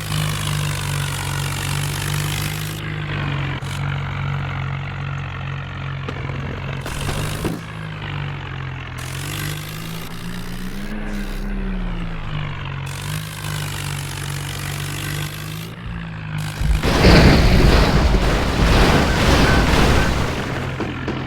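Swaraj tractor's diesel engine running steadily, its pitch rising and falling briefly twice as it is revved. Near the end, a loud rushing noise rises over the engine for a few seconds.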